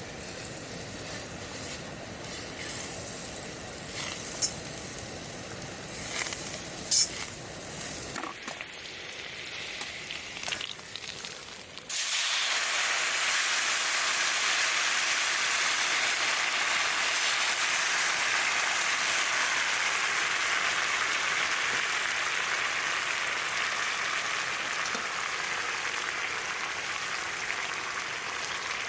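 Food sizzling in a hot pan on a camp stove, with a few utensil clicks and clinks. About twelve seconds in, a much louder steady sizzle starts suddenly and slowly eases off.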